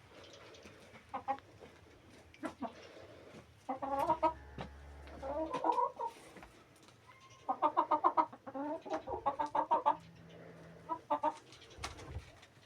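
Chickens clucking in quick runs of short repeated calls, one about four seconds in and a longer one from about seven and a half to ten seconds, with single clucks and light clicks between.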